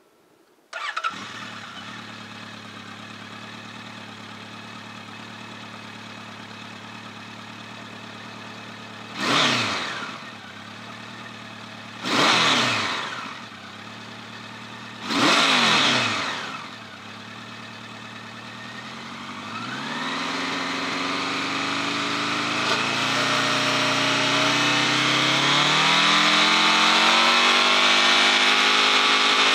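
Honda CB1100's air-cooled inline-four engine starting about a second in and settling to an idle, then three sharp throttle blips, after which the revs climb steadily and hold high near the end.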